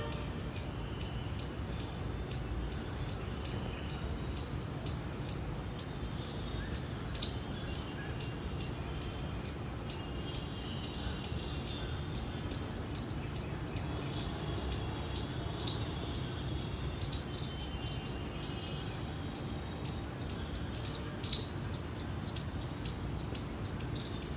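Indian palm squirrel giving its high-pitched chirping call, short sharp chirps repeated steadily at about two to three a second.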